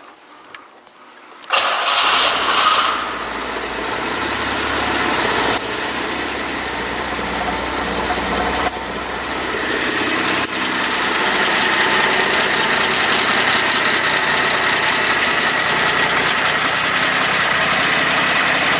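1969 Jaguar XKE Series II's 4.2-litre straight-six on a cold start. It catches suddenly about a second and a half in, runs loudest for the next second or so, then settles into a steady fast idle.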